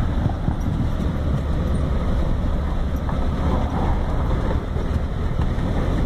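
Steady low rumble of an off-road vehicle climbing a snowy dirt trail, heard from inside the cab: engine and tyre noise.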